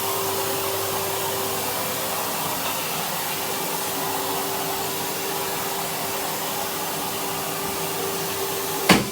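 Vacuum cleaner running steadily with a brush tool on its hose, a constant rushing noise with a steady motor hum. Near the end, one sharp knock as the tool hits the edge of something.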